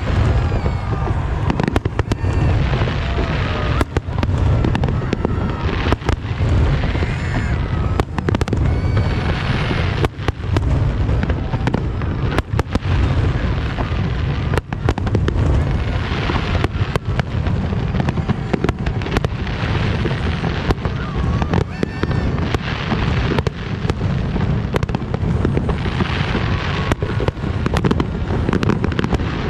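Large fireworks display: a dense, irregular run of bangs and crackles over a constant low rumble, with people's voices in the background.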